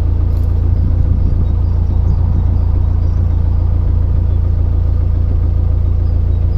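Loud, steady low rumble of wind buffeting the microphone, mixed with a narrowboat's engine running as the boat is manoeuvred in a strong river current.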